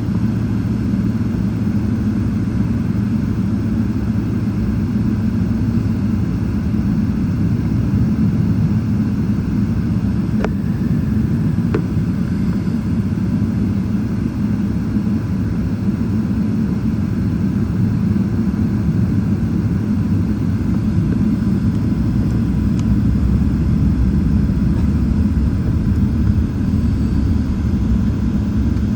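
Steady low rumble of a Boeing 777-300ER's GE90 jet engines and airframe, holding an even level throughout, with a faint steady tone above it. Two light clicks come about ten and twelve seconds in.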